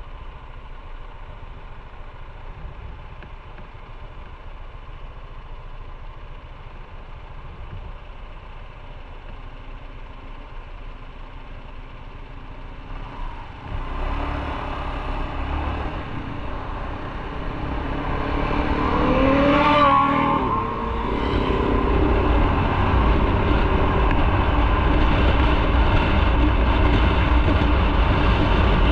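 Motorcycle engine idling, then pulling away about halfway through. The engine note climbs as it accelerates, and it settles into louder, steady engine and wind noise once under way.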